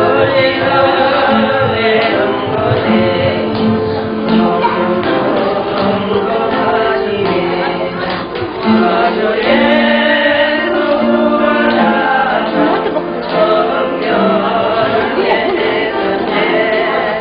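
A church group singing a worship song together, with sustained sung notes.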